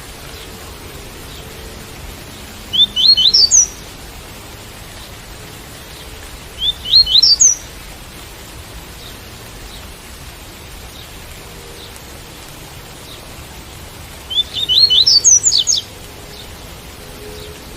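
Double-collared seedeater (coleiro) singing the 'tui-tui' song type. It gives three short phrases of quick rising high notes, the last one longer, over the steady hiss of rain.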